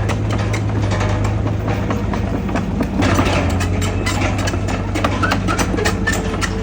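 Heavy diesel earthmoving machinery running steadily with a low engine hum, overlaid by frequent metallic clanks and rattles.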